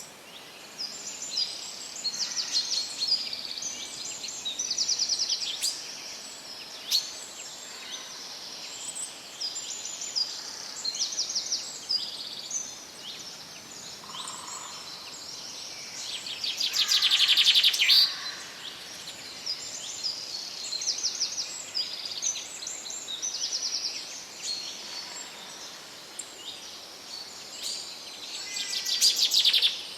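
Several songbirds singing and calling over a faint steady hiss of forest ambience, with many short chirps and trills. Two louder rapid trills stand out, one a little past halfway and one near the end.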